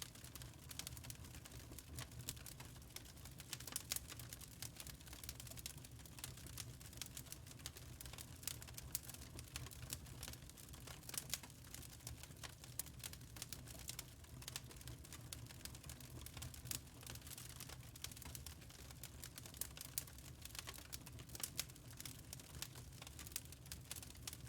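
Wood fire in a fireplace crackling, with quick irregular pops and snaps over a low steady rumble.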